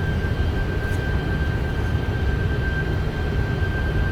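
Steady cockpit noise of a Boeing 747-400 on final approach: a low, even rumble of airflow and engines with a thin, steady high tone over it.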